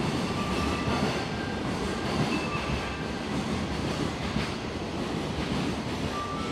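Steady rumble and hum of a station platform with electric trains standing at it. A few faint short tones step up in pitch over the first seconds and begin again at the end.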